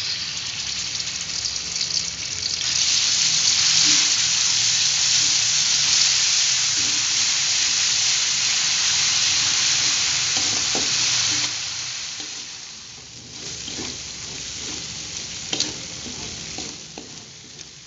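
Ground spice paste of chili, garlic, shallot and shrimp paste sizzling in hot oil in a wok while a spatula stirs it. The sizzle swells a couple of seconds in and dies down after about twelve seconds. Later the spatula scrapes and clinks against the wok now and then.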